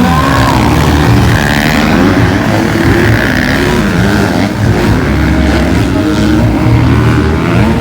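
Motocross bikes racing on a dirt track, their engines revving up and down as they accelerate and shift.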